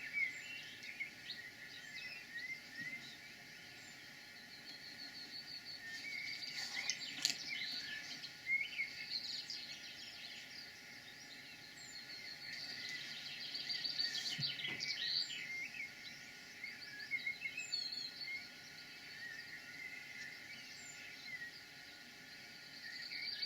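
Several songbirds singing outdoors, a dense mix of short chirps and fast repeated trills, with a couple of brief soft knocks about a third and two thirds of the way in.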